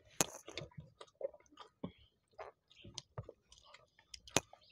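People chewing and eating with their hands, a run of small wet mouth clicks and smacks, with two sharper smacks, one just after the start and one near the end.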